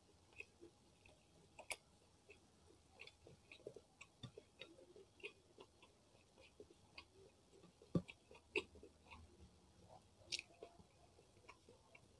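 Close-miked eating by hand: soft chewing and wet mouth clicks over rice and fried salted fish, with scattered small clicks as fingers work the food on the plate. One louder click comes about eight seconds in.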